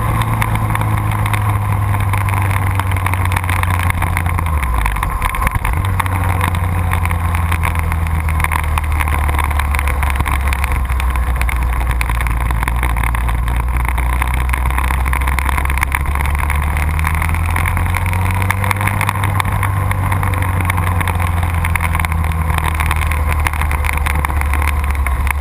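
Motorcycle engine running hard at track speed, with a strong steady note and a rushing noise over it. The engine note dips briefly about five seconds in, then picks up again.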